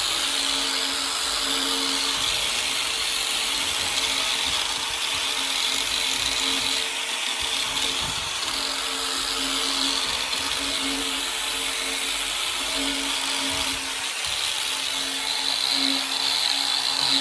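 Electric power tool running an abrasive sanding wheel against a steel bicycle frame, stripping it down to bare metal. The motor hums steadily and the grinding noise goes on without a break.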